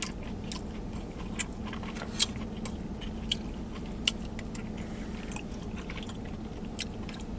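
Close-up chewing and mouth sounds of a person eating a mouthful of chicken and rice: scattered small wet clicks over a steady low hum.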